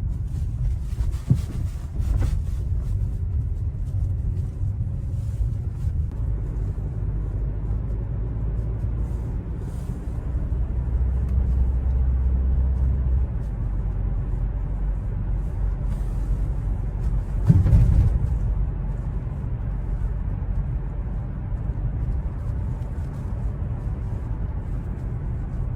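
Chevrolet Trax 1.4 petrol SUV driving: a steady low engine and road rumble, with a single thump about eighteen seconds in.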